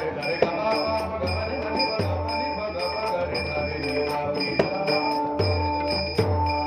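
Marathi devotional bhajan music: steady held notes over deep drum strokes, with sharp metallic hand-cymbal clashes keeping the beat.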